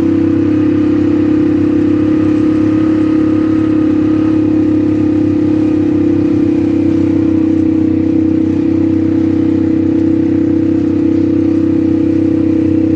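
ATV engine running at a steady speed, a loud, even drone that holds one pitch throughout.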